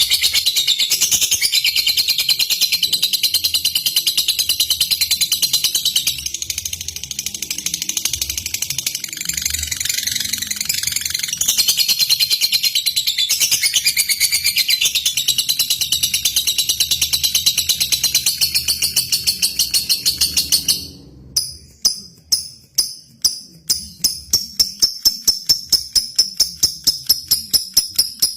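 Lovebird chattering in a long, rapid, high-pitched trill. About two-thirds of the way through it breaks into separate sharp chirps, which settle into an even run of about four a second.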